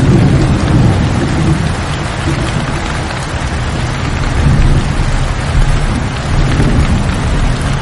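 Steady heavy rain, a dense hiss, with a low rolling rumble beneath it that swells at the start and again past the middle.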